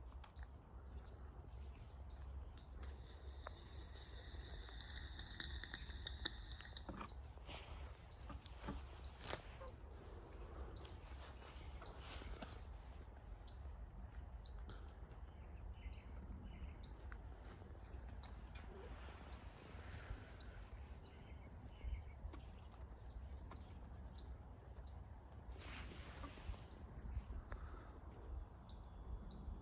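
A small bird chirping, short high notes repeated about once or twice a second, with a held high trill a few seconds in and a few soft knocks.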